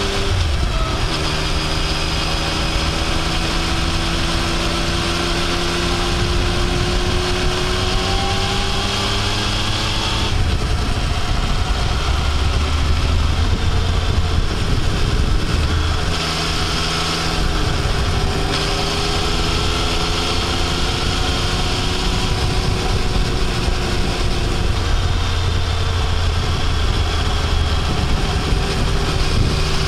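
Yamaha Tracer 900's inline three-cylinder engine pulling uphill under throttle, its note climbing slowly. It eases off about ten seconds in, then pulls and climbs again later, over a steady rush of wind noise.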